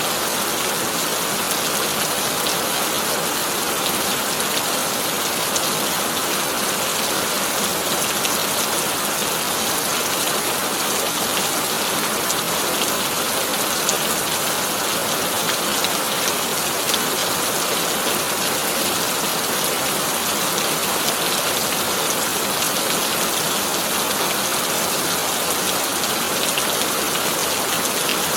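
Heavy rain falling steadily on a corrugated tin roof: a dense, even patter of drops with no thunder.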